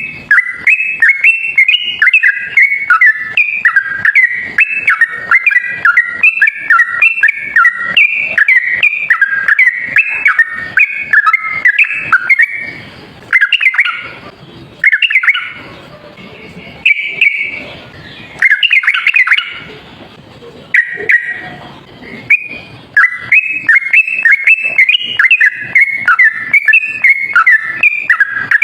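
Yellow-vented bulbul (trucukan) singing rapid, chattering runs of bubbly notes. The runs are nearly continuous, broken into a few separate short phrases in the middle before the fast chatter resumes.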